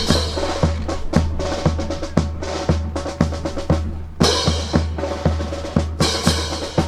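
Marching drums, bass and snare, beating a steady cadence of about two beats a second to keep the drill team's step.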